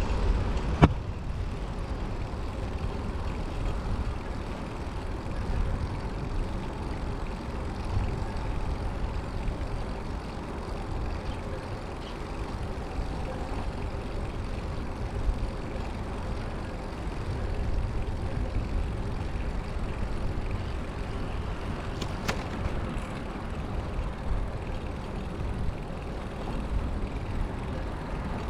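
Steady low rumbling wind noise on the microphone of a moving bicycle, with a sharp click near the start and another about 22 seconds in.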